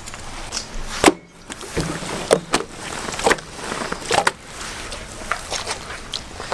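Irregular sharp clicks and knocks with rustling as hands handle and fold a freshly removed crocodile hide.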